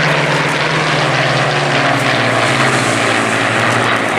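A piston-engined propeller warbird passing low and loud, its engine note falling steadily in pitch as it goes by.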